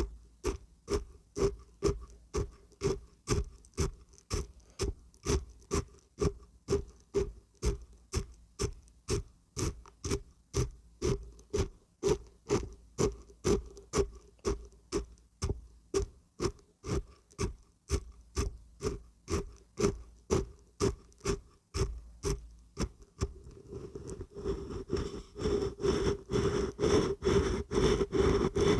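Dried beans and barberries being shaken, rattling in even strokes about two to three times a second, then in a faster, denser, louder rattle over the last few seconds.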